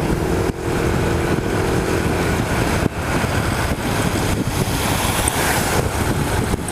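Motorcycle on the move on the road, a steady mix of engine and rushing air noise.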